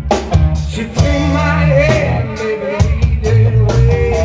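Live rock-blues band playing at full volume: drum kit hits, steady bass notes and electric guitar, with a long, wavering lead melody held through the second half.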